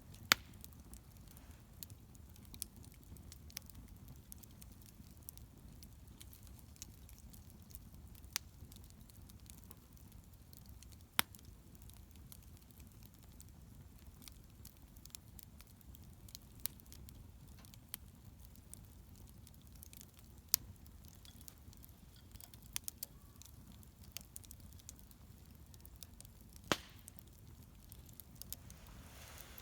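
Wood bonfire burning with a low steady rumble, crackling and popping at irregular intervals, with a few sharp loud pops.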